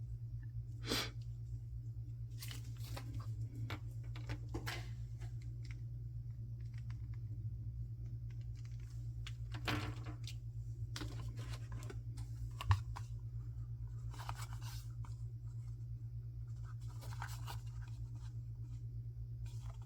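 Blind-box packaging being handled and torn open by hand: scattered short tearing, rustling and crinkling noises, with one sharp click about two-thirds of the way through, over a steady low hum.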